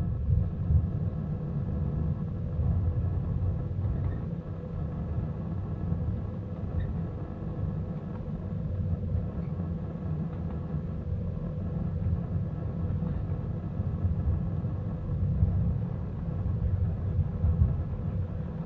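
Small-gauge park railroad train rolling along the track, heard from the caboose: a steady low rumble of wheels on rails with a faint steady hum above it.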